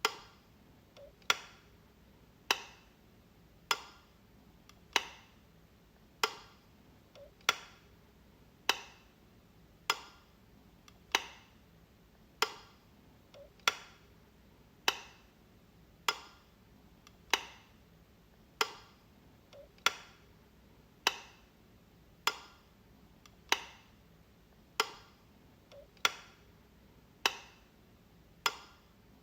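Light switch being flicked, one sharp click about every 1.2 seconds in a steady, even rhythm.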